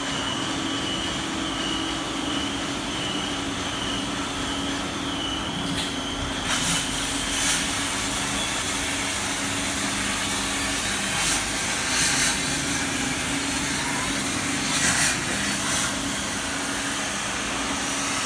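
CNC plasma cutting machine running: a steady hum under an even hiss, with a thin high whine for the first six seconds or so. After that the hiss turns brighter, with several short flares.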